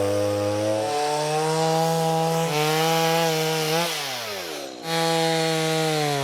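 Two-stroke chainsaw running at high revs and sawing into a tree trunk. About four seconds in its pitch sinks sharply as the throttle is let off, then it revs back up a second later and keeps cutting.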